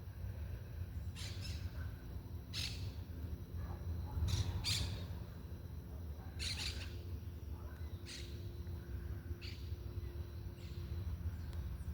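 Birds chirping: about eight short, sharp calls spaced a second or so apart, over a steady low rumble.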